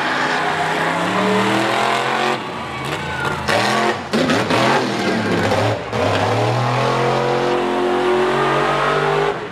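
A mega truck's V8 engine revving hard, its pitch climbing and falling with brief drops about two and a half, four and six seconds in. It then holds at high revs and cuts off sharply near the end.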